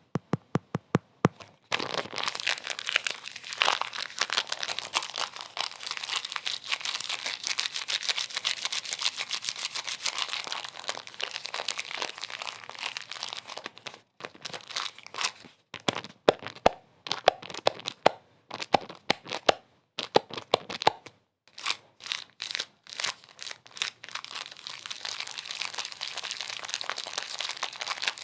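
Dense crinkling and crackling, as of something being crumpled. It opens with a quick run of evenly spaced ticks, turns into continuous crinkling, breaks into short separate bursts about halfway through, and runs continuously again near the end.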